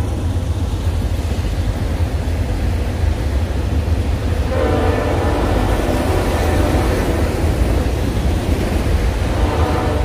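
Freight train of autorack cars rolling past at close range with a steady low rumble of wheels on rail. The rolling noise grows louder and brighter for a couple of seconds about halfway through and again near the end.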